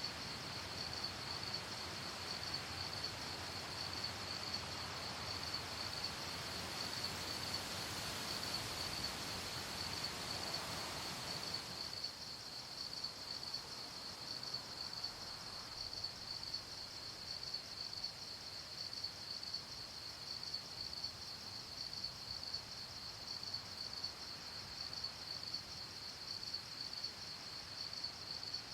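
Crickets chirping at night in a steady, high, rapidly pulsing trill, over a soft rushing noise that drops away about twelve seconds in.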